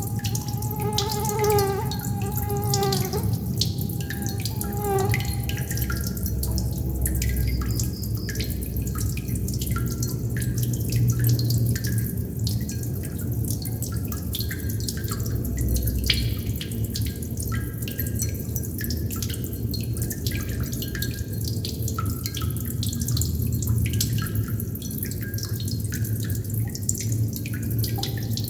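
Water droplets falling and plinking at irregular intervals over a steady low hum. A brief wavering pitched tone sounds during the first few seconds.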